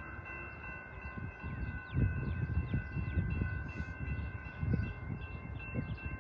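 Train at trackside: an uneven low rumble under a steady, high ringing chord of several tones held together, with short high chirps over it.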